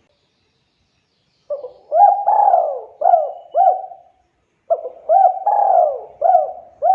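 Spotted dove (tekukur) cooing: two repeated phrases of several gliding coo notes, the first starting about a second and a half in and the second about three seconds later.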